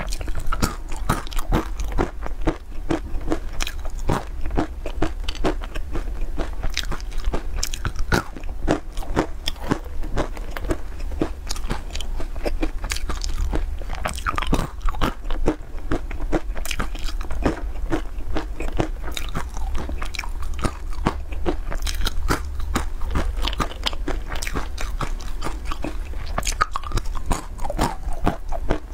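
Close-up crunching and chewing of candied walnuts coated in sesame seeds, crisp cracking bites coming thick and fast, over a low steady hum.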